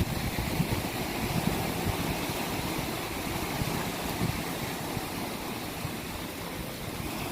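Steady rush of sea water, with a faint low motor hum under it in the first few seconds.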